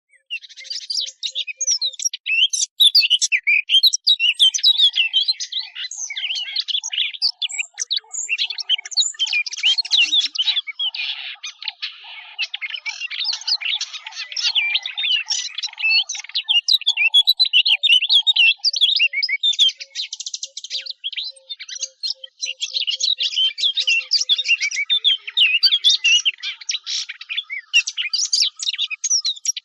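Song of the small Sylvia warbler known in Arabic as 'asfour al-tin' or al-dukhul (fig bird): a long, fast, continuous stream of high twittering and chattering notes with hardly a pause.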